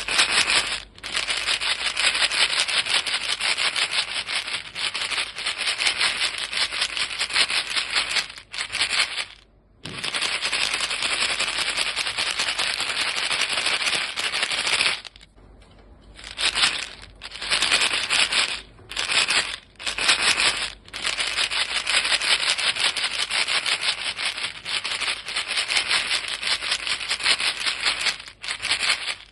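A box of chewing gum shaken rapidly, the pieces rattling inside in a dense, fast, even rattle, with a few brief pauses between bouts of shaking.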